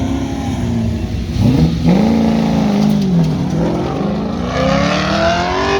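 Performance truck engine on an autocross course, revving up hard, lifting off, then climbing steadily in pitch again as it accelerates.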